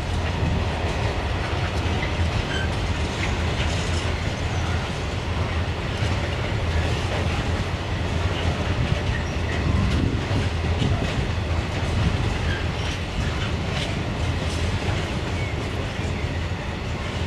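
A train running past with a steady low rumble and scattered wheel clicks over the rails.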